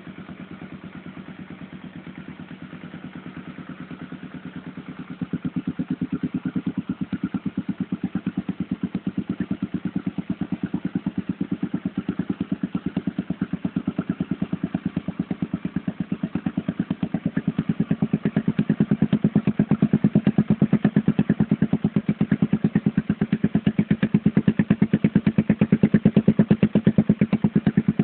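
Honda XR 250 Tornado's single-cylinder four-stroke engine running with a WACS aftermarket exhaust, a fast, even beat of exhaust pulses. It steps up louder about five seconds in and climbs a little further toward the end.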